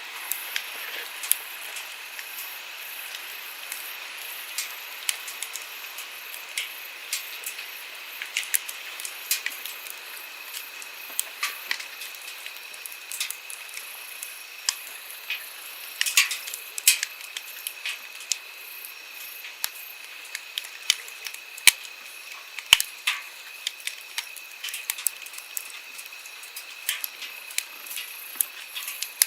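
Wood campfire crackling, with many sharp, irregular pops and snaps over a steady hiss of flowing stream water.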